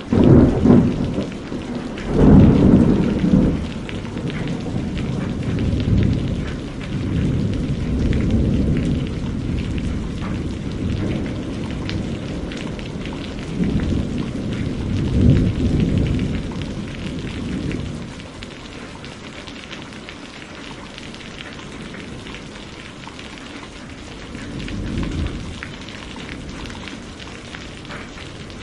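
Steady rain with rolling thunder: deep rumbles swell and fade several times, the loudest about two seconds in and another around fifteen seconds.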